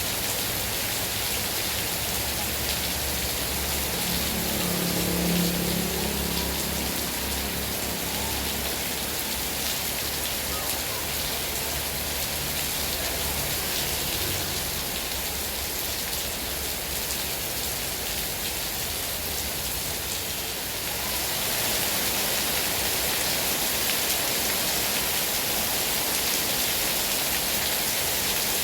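Heavy rain falling steadily, an even hiss of drops on surfaces; it grows slightly louder about three quarters of the way through. A brief low sound comes through about five seconds in.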